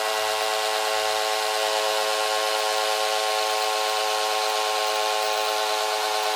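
Small DC motor spinning a homemade toy helicopter's rotor, a steady even whine.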